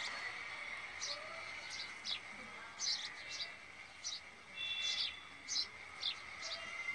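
Short high bird-like chirps, one or two a second, over a steady high-pitched drone.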